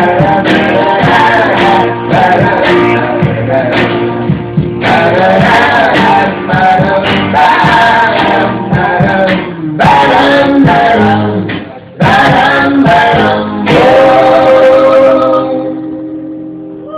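Live band playing the closing bars of a folk song, with voices singing together over the instruments; the music ends on a held chord that fades out over the last few seconds.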